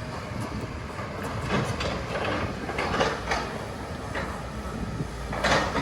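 Demolition machinery working on a building: a steady engine rumble with several short bursts of crunching and clattering, the loudest near the end.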